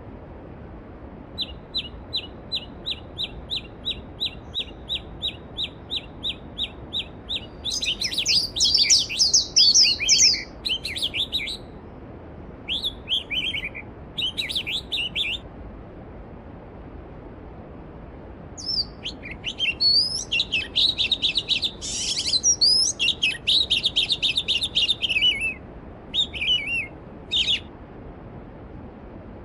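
Songbirds singing over the steady rush of a mountain stream. One bird repeats a short note about three times a second for several seconds, then bursts of rapid, varied song come and go twice.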